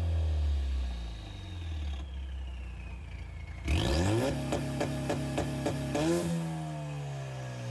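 Ford Mustang EcoBoost's turbocharged 2.3-litre four-cylinder, its exhaust only a catless downpipe dumping open, revving. The revs fall away, then about halfway they are snapped up sharply and held at the top with a rhythmic crackling stutter about three times a second, before dropping back.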